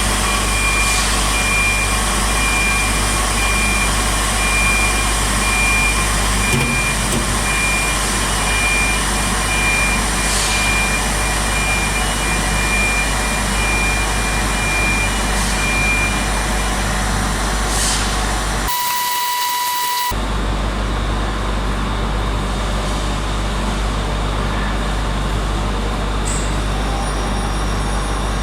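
Steady, loud industrial machinery noise with a constant low hum. For the first sixteen seconds or so, a high electronic beep repeats rapidly, like a warning beeper on moving loading equipment.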